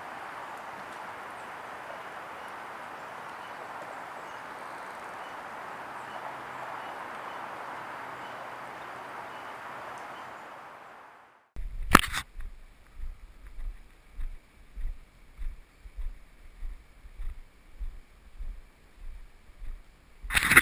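Steady rush of flowing creek water, fading out about eleven seconds in. Then footsteps thud along a hiking trail at about one and a half steps a second.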